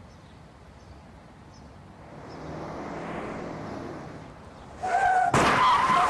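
Street noise swells as a vehicle draws near, then a brief high tone sounds and, about five seconds in, a loud crash of an impact cuts in with a high wavering screech or cry through it.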